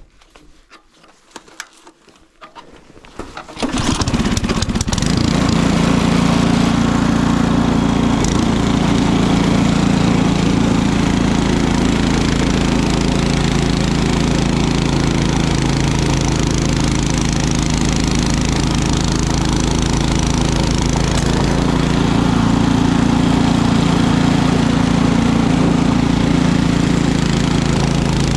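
A small gasoline engine starts about three and a half seconds in, catching unevenly for a moment, then runs steadily.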